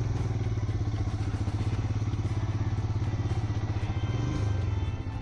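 Royal Enfield single-cylinder motorcycle engine running with a loud, even thump, pulling the bike over rough ground; it eases off near the end.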